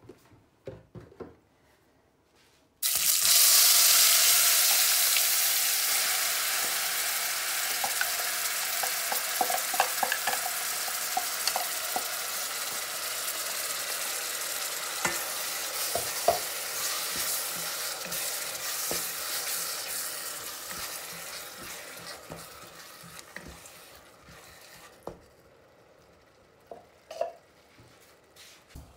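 Red chilli paste hitting hot vegetable oil in a stainless-steel saucepan: a sudden loud sizzle about three seconds in that slowly dies down over some twenty seconds. A wooden spatula stirs and knocks against the pan throughout.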